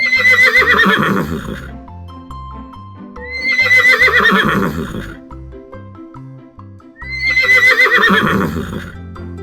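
A horse whinnying three times, about three and a half seconds apart, each call around two seconds long and falling in pitch, over a background music track.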